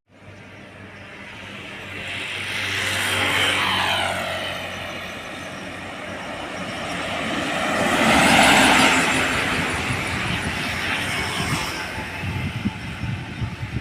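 Heavy trucks passing on a road, their diesel engines and tyres swelling as they approach and falling in pitch as they go by. The loudest pass comes about eight seconds in.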